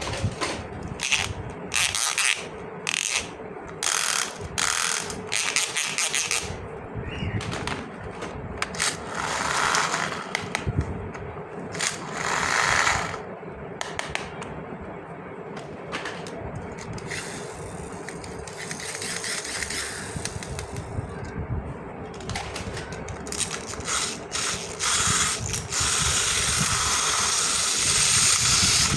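Plastic toy pieces and packaging being handled: a run of sharp clicks and clacks, with stretches of rustling and a longer rustle near the end.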